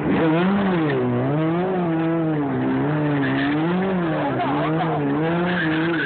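Car engine revving up and down in a steady rhythm, its pitch rising and falling about once a second.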